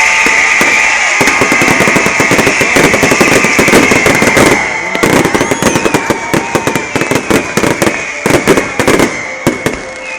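Fireworks going off: a dense, rapid crackle of bangs that thins out into scattered pops about halfway through, over a steady high whistle.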